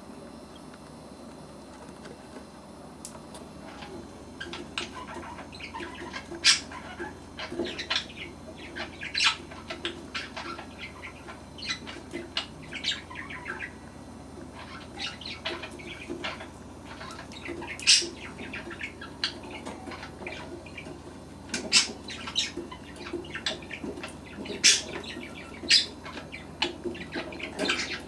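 Young budgerigars making short, sharp chirps and squeaks at irregular intervals, starting a few seconds in, over a faint steady hum.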